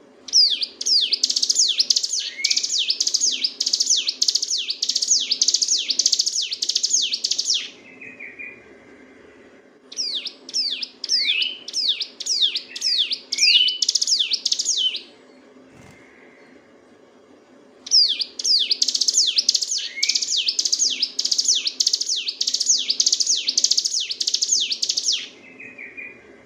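Ciblek gunung (a prinia) singing in long, rapid bouts ('ngebren'): each bout is a fast string of sharp, high notes falling in pitch, about three a second. There are three bouts, separated by pauses of a couple of seconds. A faint steady low hum runs beneath.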